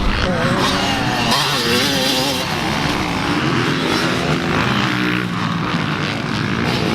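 Motocross dirt bike engine revving hard and backing off again and again, its pitch rising and falling as the bike is ridden around the track.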